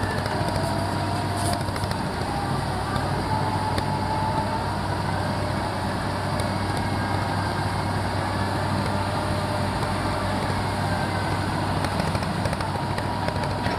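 Rotary bore-pile drilling rig running steadily: an even engine hum with a faint high whine over it.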